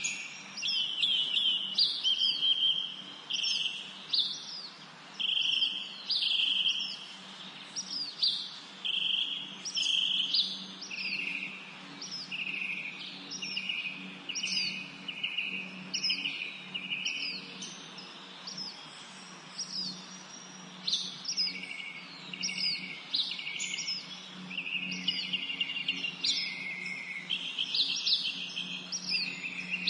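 Several songbirds singing and chirping, overlapping short repeated phrases of quick falling whistled notes, with a faint steady low hum underneath.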